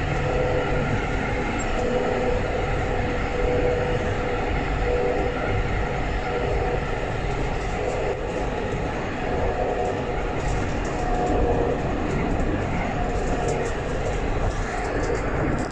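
Alstom Citadis 402 tram running along the line: a steady rumble of wheels on rail, with faint motor tones that come and go.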